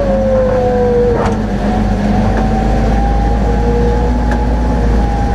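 Shuttle vehicle's engine running steadily, heard from on board, with a low hum and a whine that drifts slowly in pitch.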